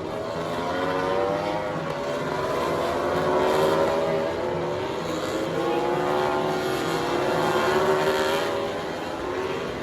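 Racing motorcycles passing at speed, several engines running at once, their pitch rising and falling as they go by.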